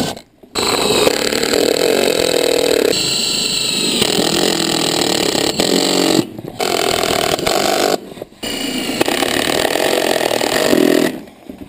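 Handheld power tool motor running hard on metal in three long runs, stopping briefly twice.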